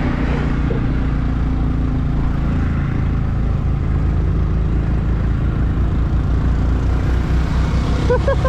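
Motorcycle engine running steadily under way, with a pulsing low beat and a steady rush of wind and road noise over the microphone.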